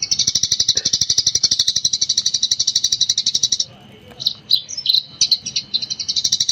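Eurasian tree sparrow giving its rapid 'gecor' chatter: a fast, unbroken string of high chirps, about fifteen a second. Past the middle it breaks into a few separate chirps, then the rapid chatter resumes near the end.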